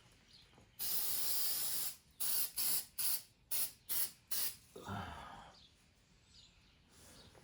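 Aerosol can of high-heat spray paint hissing: one long spray of about a second, then a string of short quick bursts as paint is dabbed onto spots that were missed.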